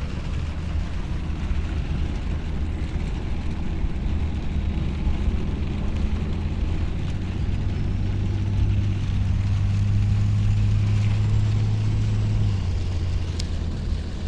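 Pickup truck driving in heavy rain, heard from inside the cab: a steady low engine and drivetrain hum over an even hiss of rain and tyres. The hum grows stronger about halfway through and drops away sharply near the end, and there is one sharp tick shortly before the end.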